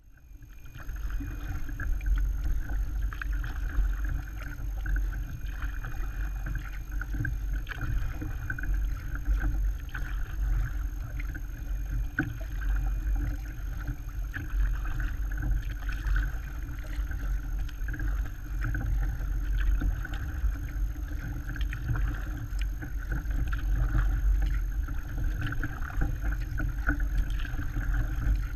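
Steady rushing of water around a kayak on the move, under a heavy low rumble of wind buffeting the microphone, with faint scattered knocks.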